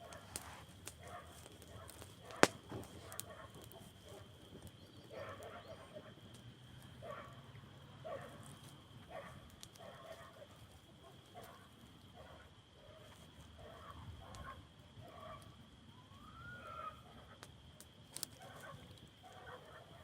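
Campfire crackling with scattered sharp pops, the loudest about two and a half seconds in, over a string of short animal calls repeating once or twice a second and a steady faint high-pitched tone.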